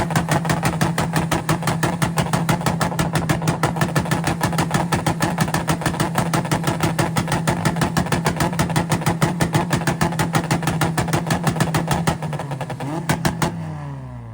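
Tuned cars' engines held on a two-step launch-control rev limiter: a loud, steady rapid-fire popping and banging from the exhausts at a fixed engine speed. Near the end they are let off and the revs fall away.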